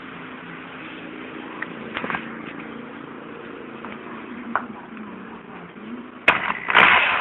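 Converted washing machine motor running as a permanent magnet alternator with a steady low hum, with a few sharp clicks. Near the end comes a loud knock, then a loud scraping burst from handling.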